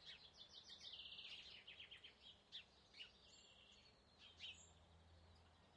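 Faint birdsong over near silence: a quick high trill in the first second and a half, then a few short scattered chirps.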